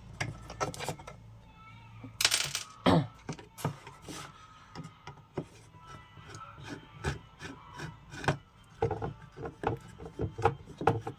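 Irregular clicks, knocks and scraping as a tower home theatre cabinet is opened and its amplifier board is handled and pulled out.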